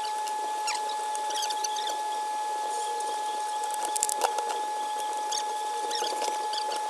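A steady high-pitched whine runs throughout under many small, scattered clicks and ticks, with a cluster of louder clicks about four seconds in.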